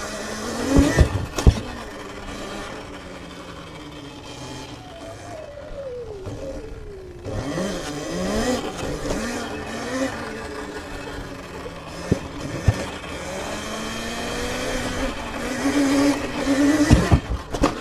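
Sur-Ron electric dirt bike's motor whining, its pitch rising and falling as the bike speeds up and slows. Several sharp knocks come about a second in, twice around the middle and again near the end.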